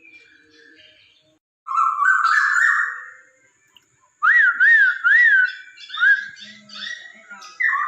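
Poksay Hongkong, a laughingthrush, singing loud whistled phrases: first a stepped rising phrase, then after a short pause three looping up-and-down whistles in a row, followed by shorter varied notes and a quick run of repeated notes near the end.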